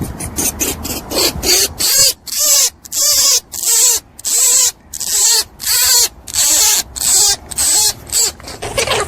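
A rabbit making a rapid series of short, hissy, squeaky bursts, about two a second, that start about a second and a half in.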